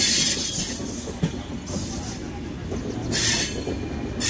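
Moving train on the rails: a steady low rumble, with bursts of high-pitched hissing that come and go and a single knock about a second in.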